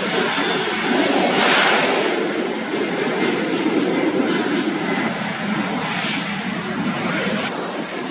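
Airliner's engines sounding loud as it passes close by, a dense steady rush that peaks about a second or two in and then slowly eases off.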